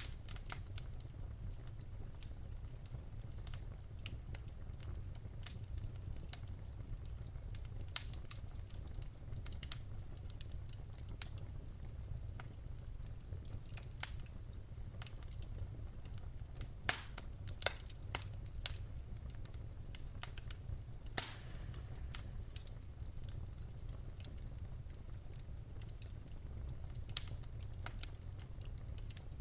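Wood fire in a fireplace crackling: irregular sharp pops and snaps from the burning logs over a steady low rumble of the flames, with a few louder pops about midway.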